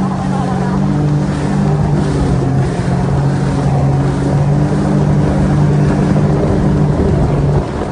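Sea-Doo personal watercraft engine running steadily under way, with wind and water rushing over it; the level dips a little near the end.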